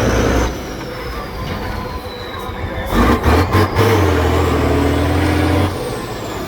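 A heavy off-road trial truck's engine revs in two surges, a short one at the start and a longer one from about three seconds in, the second opening with a quick run of knocks. A thin high whine slowly falls and then rises.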